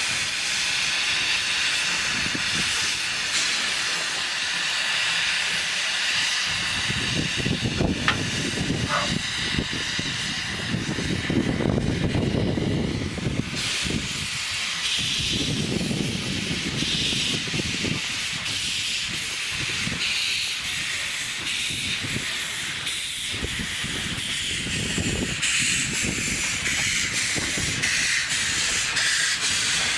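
Steam locomotive hissing steam steadily, joined about seven seconds in by slow, heavy low swells of exhaust as it works.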